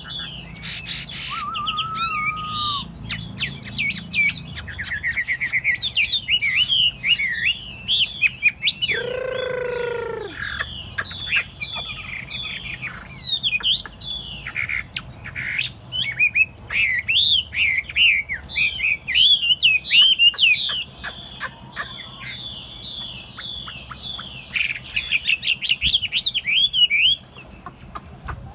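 Caged Chinese hwamei singing a long, varied song of rapid whistled phrases, broken about nine seconds in by a single lower, harsher call; the song stops near the end.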